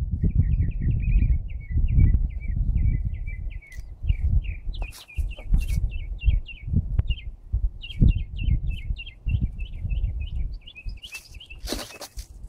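A songbird singing rapid runs of short, high chirps, about five notes a second, in phrases with brief gaps, over a loud low rumble. A short hissing rush comes near the end.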